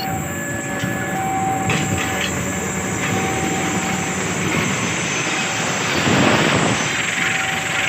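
Train running along the rails at a level crossing: a continuous rumble and rattle of wheels and cars that swells a little near the end.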